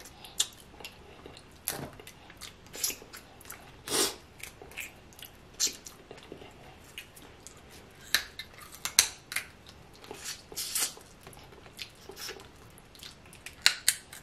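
Close-miked wet chewing and lip smacking while eating seafood-boil food in sauce: irregular sharp smacks and clicks every half second or so, the loudest about four seconds in and again about nine seconds in.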